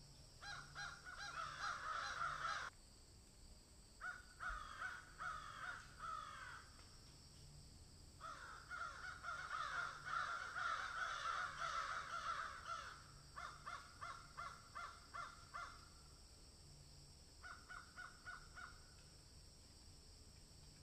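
Birds calling in rapid, dense runs of repeated chirping calls, in about five spells of one to five seconds with short pauses between.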